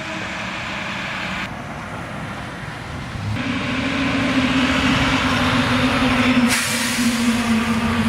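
Heavy truck engine and tyre noise on a road, with a steady engine drone that comes in about three seconds in and grows louder as the truck passes close by.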